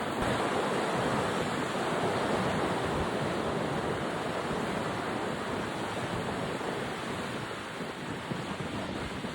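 Sea waves breaking and washing up a beach, with wind buffeting the microphone.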